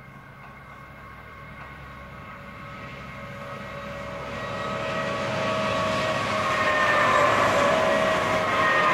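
Lead diesel locomotives of a long freight train approaching and passing, growing steadily louder, with a steady high engine whine that dips slightly in pitch as the locomotives go by near the end.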